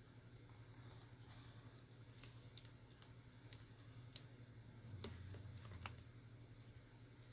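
Faint, scattered light clicks and ticks of paper and craft tools being handled, over a low steady hum.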